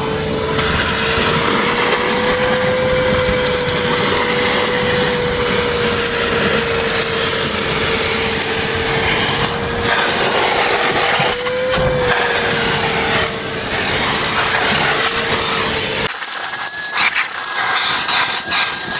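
DeWalt DXV234 vacuum cleaner running with a steady motor whine over the rush of air. About sixteen seconds in the hum and whine drop away, leaving a hissing rush of air.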